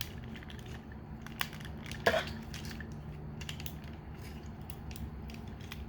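Plastic parts of a Transformers Masterpiece MP-30 Ratchet figure clicking and rubbing as they are folded together by hand: faint scattered clicks, with a sharper one about a second and a half in and a louder one about two seconds in, over a steady low hum.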